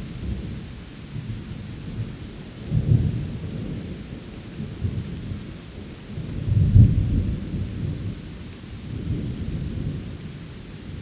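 Steady rain with low rolls of thunder rumbling under it, swelling loudest about three seconds in and again, more strongly, about seven seconds in.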